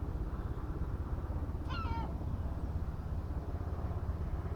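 A low, steady rumble with a rapid flutter. A bird gives one short call about two seconds in.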